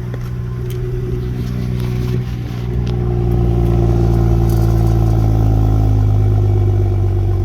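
2015 BMW 335's engine idling steadily shortly after a cold start, with no knocks or odd noises; it gets louder about three seconds in.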